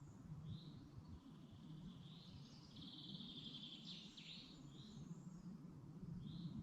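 Songbirds singing faintly in a forest: short high chirps every second or two, with a longer trilled phrase in the middle, over a low steady rumble.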